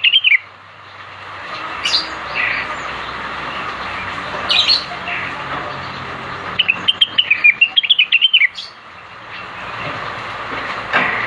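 Blue-winged leafbird (cucak wilis) singing: a rapid, warbling run of chirped notes of about two seconds, with single short calls scattered before and after it over a steady background hiss.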